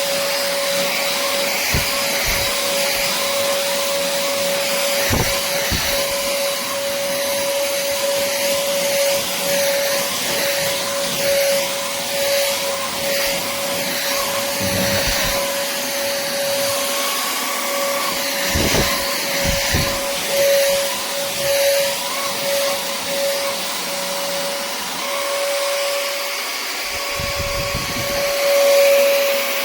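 Vexilar V9PRO cordless stick vacuum running: a steady motor whine with one held tone over airflow hiss, with a few dull low knocks along the way.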